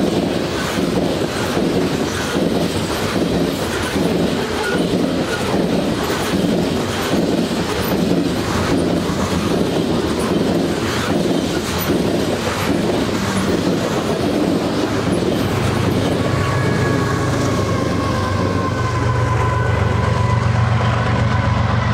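Loaded coal hoppers of a freight train rolling past, their wheels clicking over rail joints at about one click a second, with the rear distributed-power locomotive going by about ten seconds in. Near the end the clicking fades and a low drone with a slowly falling whine takes over.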